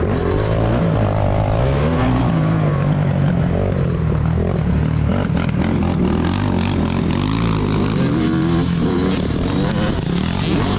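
Several motocross bike engines running at once, their pitches rising and falling over one another as the riders rev and ease off.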